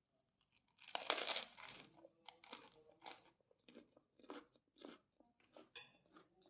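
Someone biting into a crisp kerupuk cracker with a loud crunch about a second in, then chewing it with a run of shorter crunches about twice a second.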